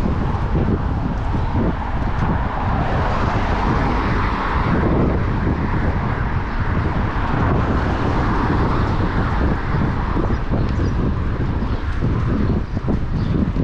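Wind rumbling on the microphone while riding a bicycle through city traffic, with the noise of passing vehicles swelling through the middle of the stretch and easing off again.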